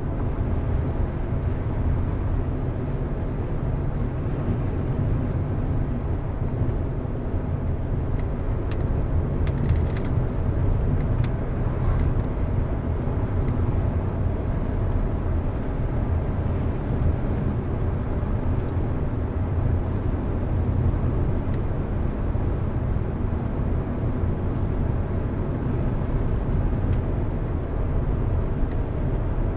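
A car driving at a steady speed: an even low rumble of engine and tyres on the road, with a few faint ticks about ten seconds in.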